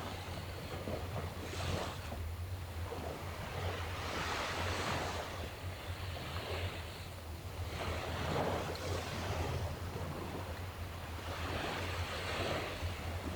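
Sea waves washing onto the shore, the surf swelling and ebbing every three to four seconds, over a steady low rumble.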